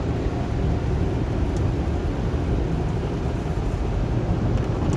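Automatic car wash running, heard from inside the car's cabin: a steady low rumble with a rushing hiss.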